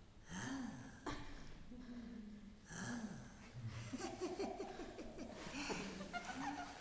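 Faint non-word vocal sounds from a person: breaths and a string of short hummed tones that rise and fall in pitch.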